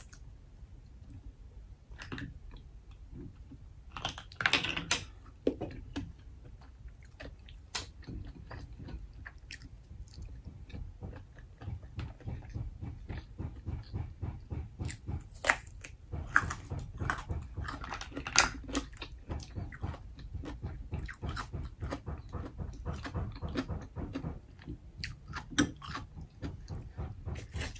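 Close-miked chewing of steamed black mussels, with short clicks of the shells being pulled open and handled between bites; denser and louder in the second half.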